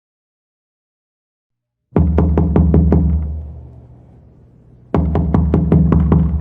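Heavy knocking on a door, horror sound effect: two bouts of about seven quick knocks, about three seconds apart, each with a deep booming resonance that rings out after the knocks.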